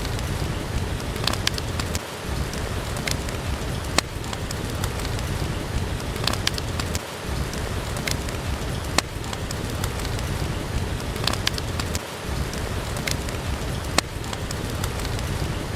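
Steady rain with a low rumble under it, and the sharp single pops of a crackling wood fire every few seconds.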